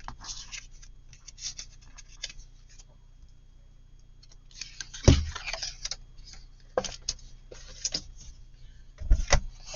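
Paper being handled on a craft table: scattered rustling and light taps, with a heavier thump about five seconds in and another near the end.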